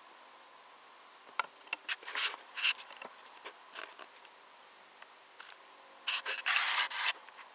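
Handling noise from a 1:18 diecast model car being turned in the hands: a few sharp clicks and short rubbing scrapes starting about a second and a half in, then a denser run of rubbing and clicks near the end.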